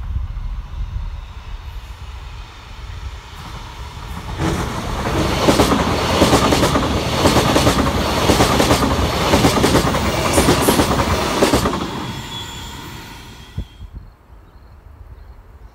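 A train passing close by, its wheels clattering over rail joints. It builds up about four seconds in, stays loud for several seconds, then fades away.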